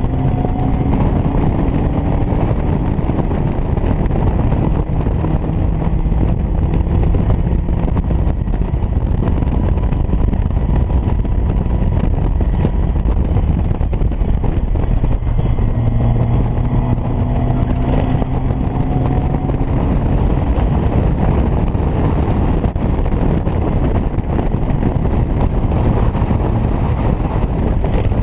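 On-board sound of a 125 hp Caterham Academy race car at speed: the engine runs hard under heavy wind and road noise, and its pitch climbs as the car accelerates at the start and again a little past halfway.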